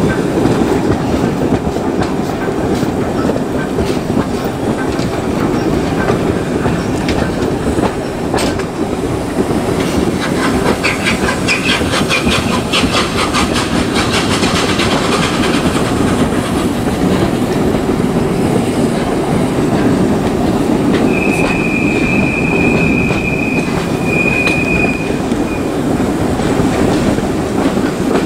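Passenger coach of a steam-hauled train running along the track, heard from an open window: a steady rumble, with a run of rapid wheel clicks around the middle. About three-quarters of the way through, a high steady wheel squeal sounds in two stretches as the train rounds a curve.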